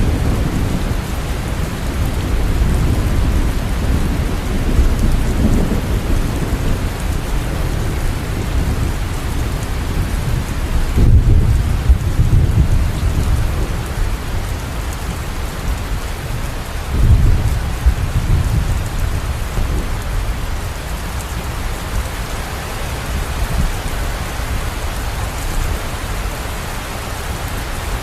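Steady rain falling, with thunder rumbling low beneath it and two louder rolls partway through.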